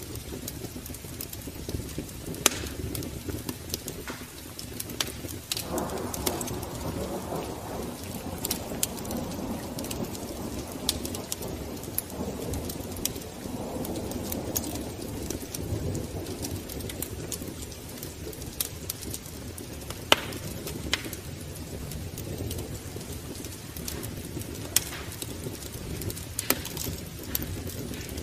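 Wood fire crackling in a fireplace: irregular sharp pops and snaps over a low rumble that swells for several seconds a few seconds in.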